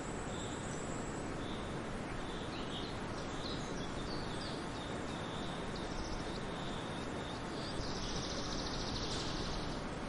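Birds chirping: short calls repeating over and over, with a denser buzzy trill starting about eight seconds in, over a steady rushing noise.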